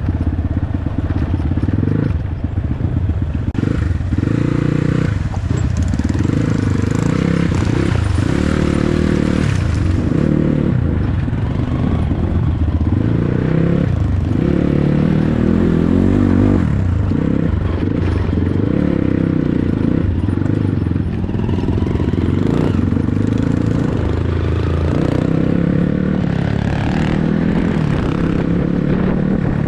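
Dirt bike engine running under way, the throttle opening and easing off again and again as the bike is ridden.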